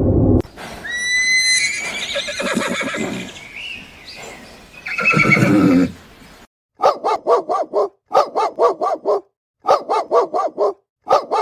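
Horse whinnying: a high squealing call near the start, then a series of quavering neighs repeated several times in the second half.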